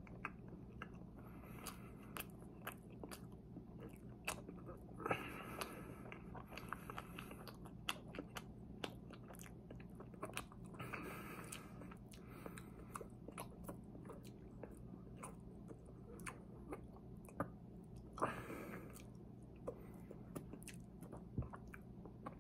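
Close-up chewing and biting of a chocolate-glazed, cream-filled eclair, with many small wet mouth clicks and smacks and a few louder bites about a third, half and four-fifths of the way through.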